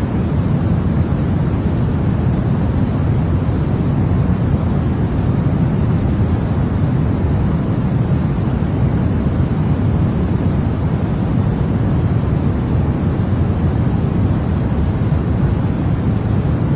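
Continuous, even white noise for baby sleep: a steady rush, weighted toward the low end so that it sounds deep and rumbly, with no change.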